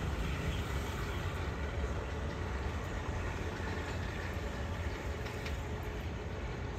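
Passenger train running with a steady low rumble.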